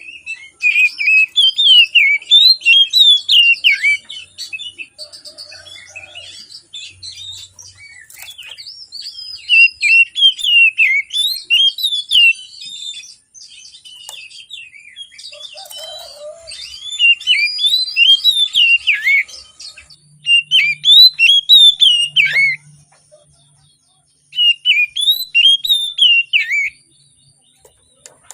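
Oriental magpie-robin (kacer) in full song: fast runs of sweeping whistled notes in loud bursts of a few seconds each, with softer twittering between them.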